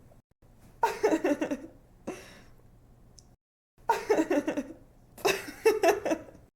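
A young woman laughing in short giggling bouts, each broken into quick pulses of breathy voice, with brief pauses between the bouts.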